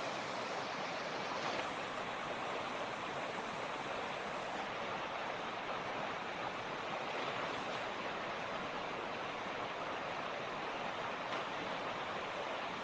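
Mountain creek (torrent) rushing over rocks: a steady, even hiss of running water with no change.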